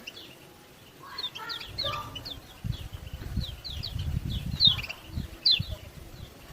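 Kecial kuning (yellow white-eye) giving rapid series of short, high, downward 'ciak ciak' chirps. A low rumbling runs under the calls through the middle.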